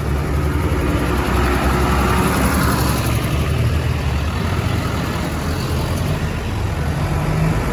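Diesel engines of modern farm tractors running with a steady low drone.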